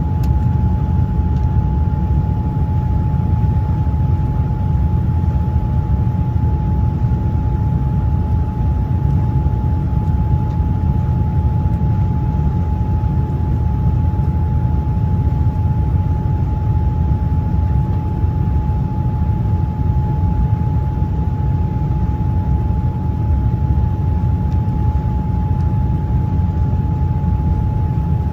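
Airliner cabin noise in flight: a steady, loud low rumble of the engines and airflow, with a constant high hum over it.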